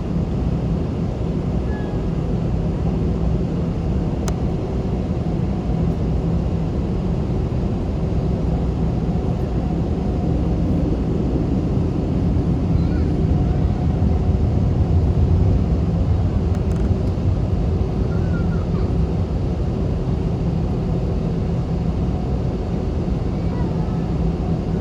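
Steady cabin noise inside an Airbus A321, its jet engines running at low, even power, with a constant low hum and rumble.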